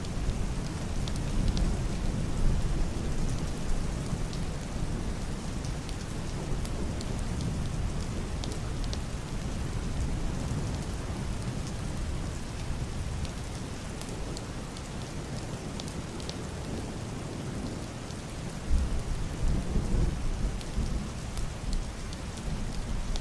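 Heavy rain drumming on a wooden roof and glass window, with individual drops ticking. Low, muffled rolls of distant thunder swell near the start and again about three-quarters of the way through.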